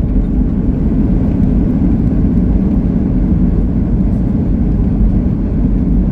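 Steady low rumble inside the cabin of a Boeing 737 MAX 8 airliner: engine and airframe noise heard from a passenger seat.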